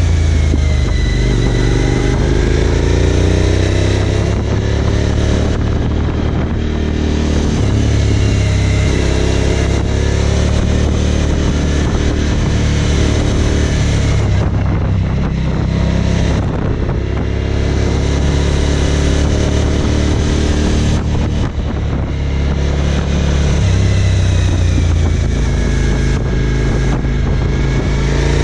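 Suzuki DL1000 V-Strom's V-twin engine, heard from on board the bike, running at road speed. Its pitch falls and rises several times as the throttle is closed and reopened through the bends.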